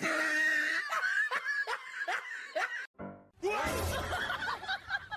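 Laughter in a string of short laughs over music, broken by a brief gap about three seconds in.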